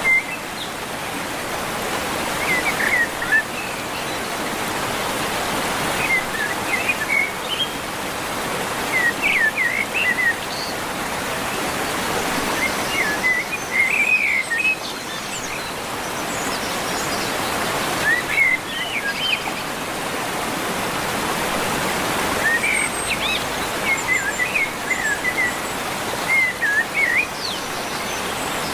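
A songbird sings short, twittering phrases every few seconds over a steady rushing background noise.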